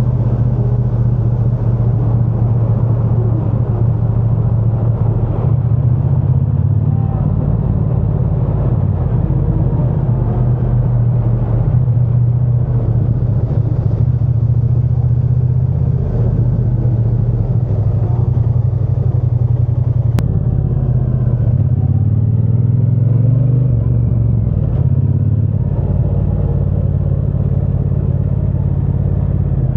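Triumph Bonneville T120's 1200 cc parallel-twin engine and exhaust under way, a steady low engine note with a brief rise in revs about three-quarters of the way through.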